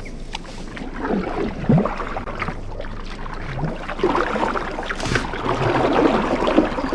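Water splashing and gurgling as a canoe is paddled, with a few small knocks.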